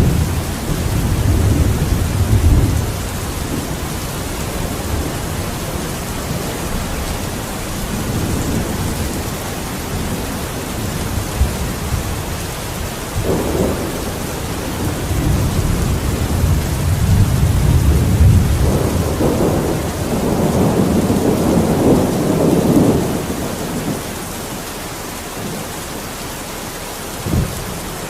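Steady rain with thunder rolling through it: long low rumbles swell and fade several times, the strongest in the second half. A brief sharp thump comes near the end.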